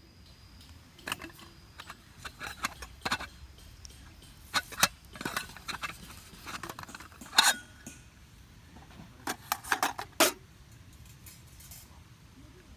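Metal camping gear being handled: irregular clinks and knocks of cookware or utensils, some a few in quick succession, with a louder knock about halfway through.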